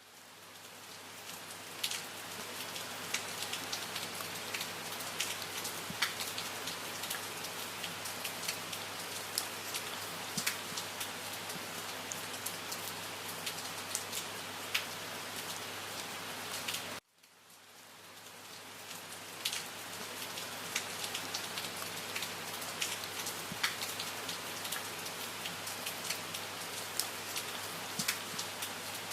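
Steady rain falling, with scattered sharp individual drop hits. It swells in over the first couple of seconds, then a little past the middle it cuts out abruptly and fades back up over about two seconds, like a loop restarting.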